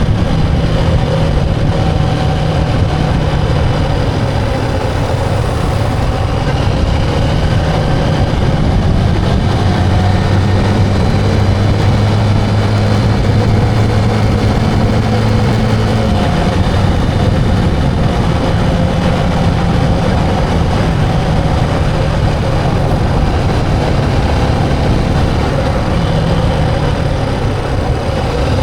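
Motorcycle engine running at a steady pace while riding, a continuous low drone whose pitch steps up and then back down around the middle.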